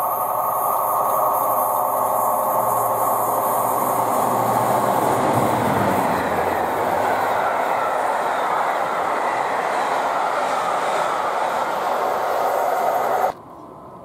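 Locomotive-hauled passenger train passing at speed close by, its note dropping in pitch as the locomotive goes past about five seconds in, followed by the steady rush of the coaches' wheels on the rails. The sound cuts off suddenly near the end.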